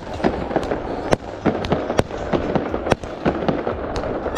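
Fireworks going off: many sharp bangs and pops at an uneven pace, several a second, over a continuous low rumble of more distant bursts.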